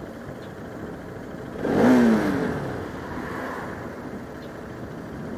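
Steady motorcycle engine and wind noise while riding, with another vehicle going by close about two seconds in: a brief loud swell whose engine pitch falls as it passes.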